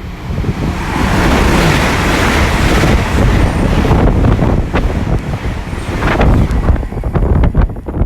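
Ten-coach GWR Intercity Express Train passing through the station at speed: a loud rush of air and wheel noise builds about a second in and holds, with a run of sharp clicks from the wheels near the end. Wind buffets the microphone.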